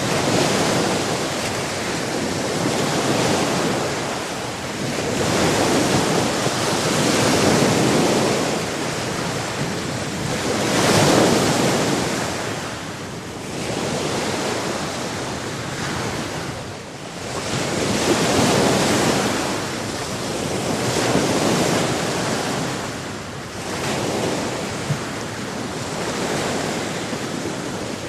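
Sea waves washing onto a shore, a continuous rushing noise that swells and falls back every few seconds.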